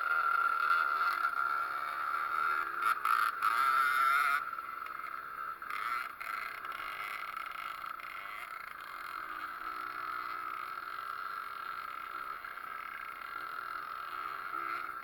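Pit bike's small two-stroke Zündapp engine running at high revs, its note wavering, then dropping to a lower, steadier level about four seconds in.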